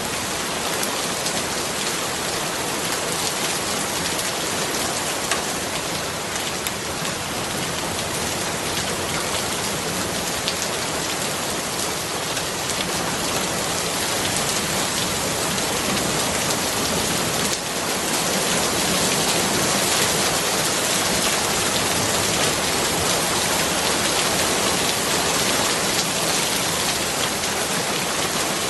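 Steady rain falling on hard surfaces, a dense even patter, getting a little louder a bit past halfway.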